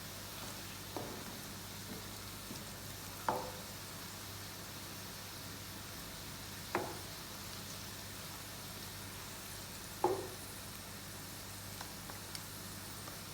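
Food frying in a pan with a steady sizzle, while a spoon stirs and knocks against the pan three times, with a few lighter taps.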